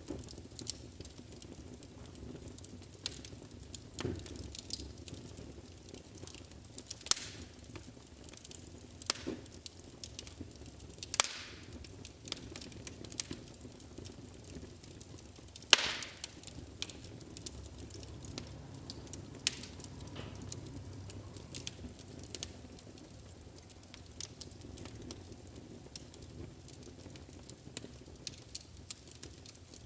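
Wood fire burning in a fireplace: irregular sharp crackles and pops over a low steady rumble of flames, with the loudest pops about 11 and 16 seconds in.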